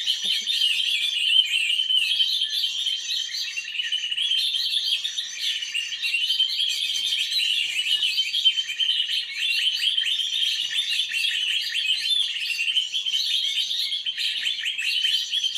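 Many small birds chirping continuously, their quick overlapping calls forming a dense, unbroken chatter.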